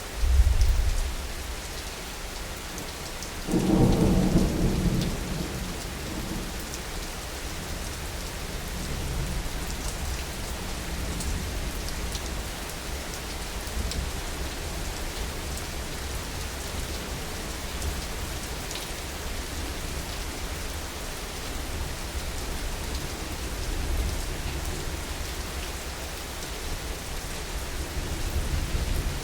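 Heavy rain falling steadily, with thunder. A low boom comes right at the start; a louder thunderclap about three and a half seconds in rumbles off over a couple of seconds; fainter rolls of thunder swell twice near the end.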